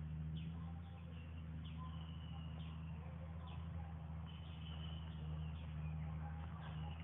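Birds chirping: short, high, falling chirps about once a second, with a few brief held notes, over a steady low hum.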